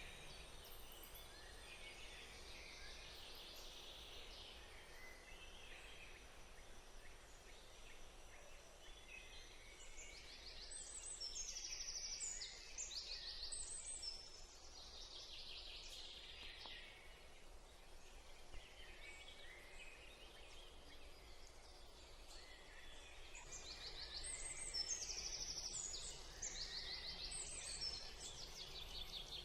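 Wild birds chirping, with quick repeated high notes in rapid phrases that swell into two louder bouts, one around the middle and one near the end.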